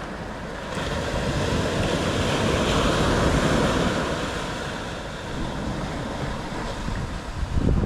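Ocean surf washing in along the shore, swelling for a couple of seconds and then easing off, with wind rumbling on the microphone.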